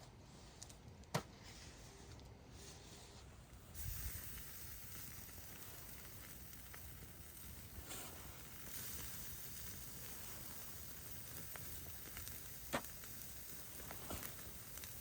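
Food sizzling in a pan over a campfire: a steady hiss sets in abruptly about four seconds in, with a few sharp pops and crackles.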